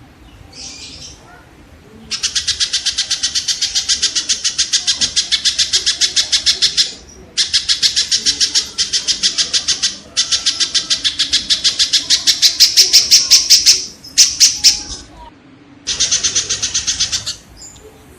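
Kingfisher (tengkek) giving long, rapid trills of sharp repeated notes, about ten a second, in several runs of one to five seconds with short breaks. A faint short call comes under a second in.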